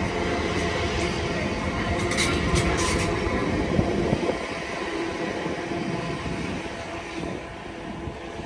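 Gatwick Express Class 387 electric multiple unit running along the platform, a steady electric hum over wheel-on-rail noise, with a few sharp clicks about two to three seconds in. The sound fades after about four seconds as the train draws away.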